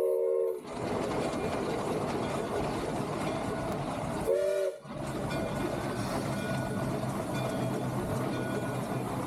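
A three-truck Shay steam locomotive's whistle sounds a chord that cuts off about half a second in. It gives way to the steady noise of the locomotive working, heard from inside the cab. A short whistle toot comes about halfway through.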